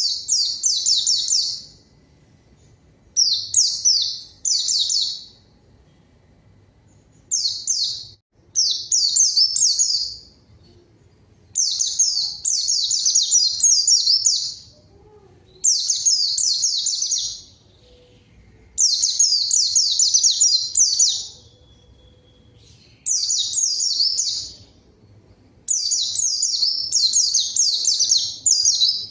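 White-eye (pleci) singing loudly in about ten bursts of rapid, high, falling notes, each burst one to three seconds long with short pauses between. It is a hard, sustained 'gacor' song of the kind that calls out a rival.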